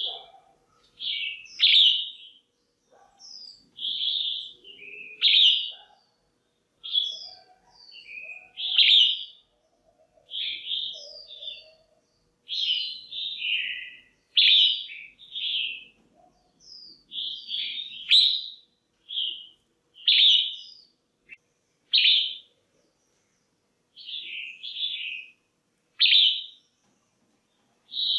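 Female red-whiskered bulbul calling over and over in short, bright chirping phrases, roughly one every second or two.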